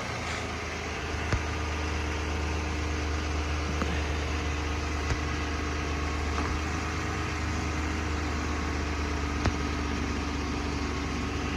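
A 2016 GMC Sierra pickup's engine idling steadily just after starting on a newly installed battery.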